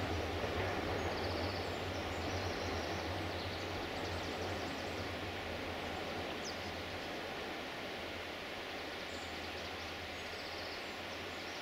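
A diesel train's low rumble slowly fading into the distance, with a few birds chirping briefly near the start and again near the end.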